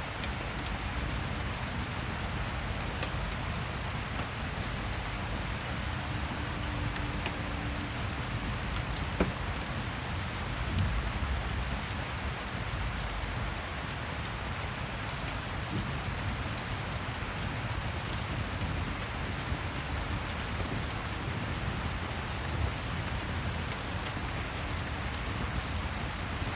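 Steady rain and a crackling fireplace, an even hiss of rain with scattered sharp pops and crackles, two of them louder about nine and eleven seconds in.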